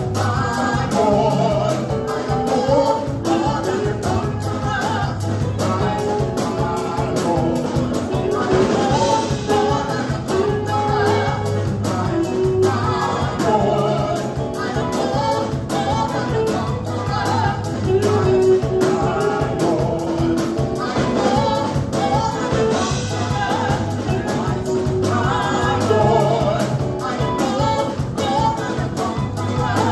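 Live gospel praise band with a group of singers performing an up-tempo worship song: voices carry the melody over drums keeping a steady, busy beat and a strong bass line.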